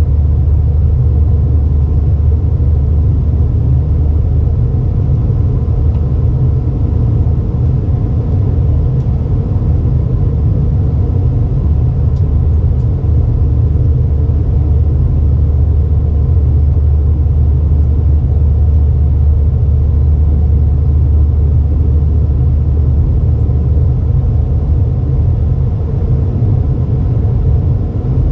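Steady loud low rumble of cabin noise inside an Airbus A320, from the engines and air around the aircraft, unchanging throughout.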